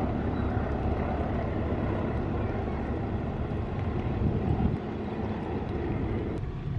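Train running past on the curve: a steady low rumble of wheels on rails that eases slightly near the end.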